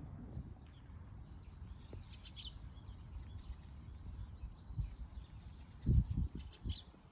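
Outdoor ambience with faint, short bird chirps over a low background rumble, and a few low thumps about six seconds in.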